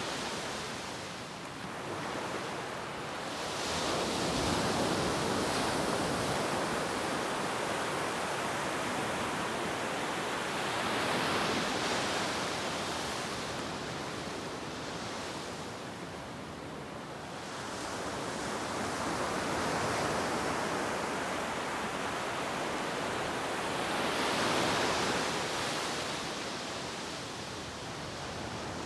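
Ocean waves breaking and washing on a beach: a steady surf hiss that swells and eases every several seconds.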